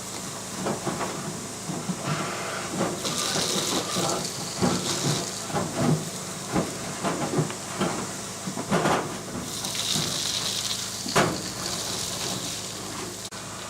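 Air-duct cleaning equipment working in the ductwork: a steady rush of air with many knocks and rattles, and two louder hissing surges, one about three seconds in and one near ten seconds.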